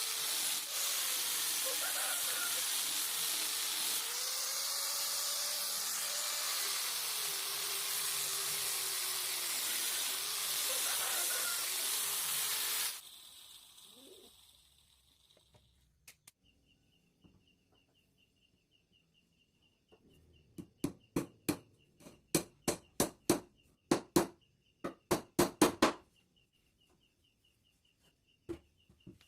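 A loud, steady hiss that cuts off suddenly about 13 seconds in. After it comes a faint, high, steady trill, then a quick run of sharp taps, about three a second, for several seconds near the end.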